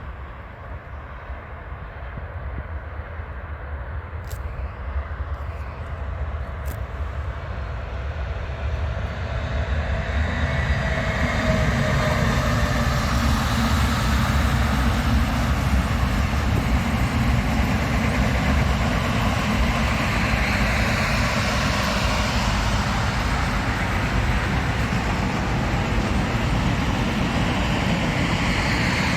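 A train approaching, growing louder over about ten seconds, then passing close by with a steady loud noise of wheels running on the rails.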